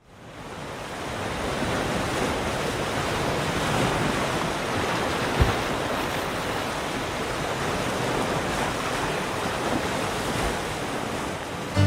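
Ocean surf washing in a steady rush, with some wind, fading in at the start. A brief low thump comes about halfway through.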